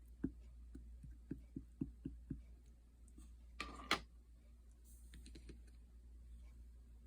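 Slime with clay mixed in being pressed and worked by hand, giving a run of small sticky clicks and pops, then a short louder crackling squish about three and a half seconds in.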